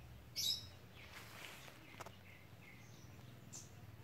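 Birds chirping: one short, sharp high call about half a second in, then a few fainter short calls, over a faint steady outdoor background.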